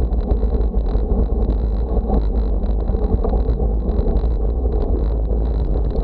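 Wind buffeting the microphone in a loud, steady rumble, with a thin high tone running through it.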